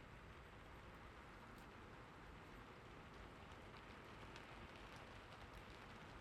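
Faint steady rain, a soft even hiss with scattered small drop ticks.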